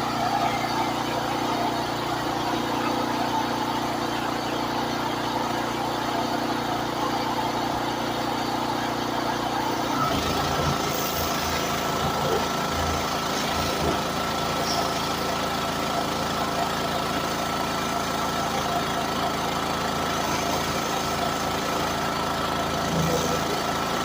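Pressure washer engine running steadily. About ten seconds in its note changes and a steady high whine comes in.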